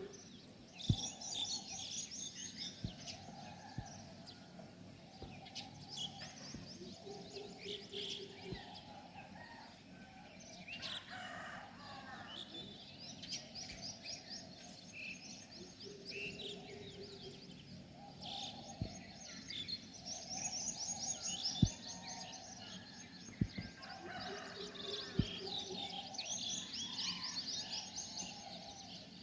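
Several birds chirping and calling together: rapid high trills and chirps over lower, repeated calls, with occasional sharp clicks.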